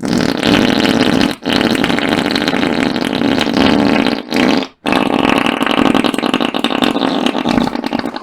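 A man's drawn-out, raspy hacking cough in three long bouts, broken by short pauses about a second in and again around four and a half seconds in.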